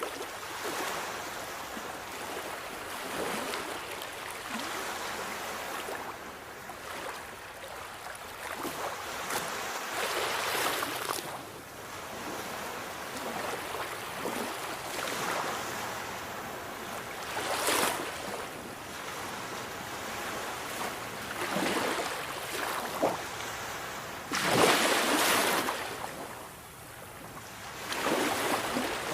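Sea waves breaking, the surf swelling and washing back in irregular surges every few seconds, the loudest about 25 seconds in.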